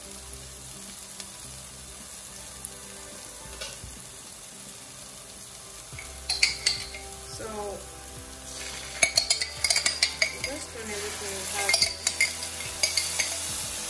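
Tomato puree and onions frying in oil in a nonstick pot, with a steady sizzle. From about six seconds in, a utensil clinks and scrapes sharply against the pot, and the sizzle grows louder a couple of seconds later as blended pepper mix goes into the hot oil.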